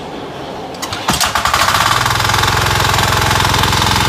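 Small diesel engine of a JJM5B cable-pulling winch starting: a few clicks, then it catches about a second in and runs steadily with a fast, even clatter.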